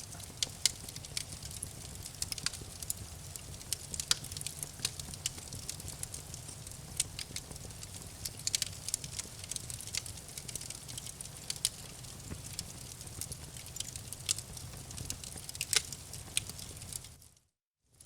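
Campfire crackling: irregular sharp pops and snaps over a steady low rumble of the fire. It drops out to silence for about half a second near the end.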